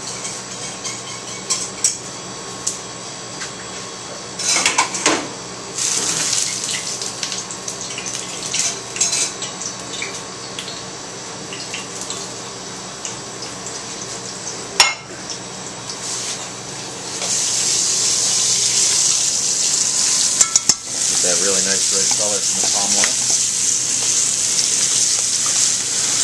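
Plates and utensils clinking and knocking, then, about two-thirds of the way in, a loud steady sizzle starts: flour-dusted spider crabs searing in very hot palm oil in a pan. A couple of sharp clatters come just after the sizzle rises.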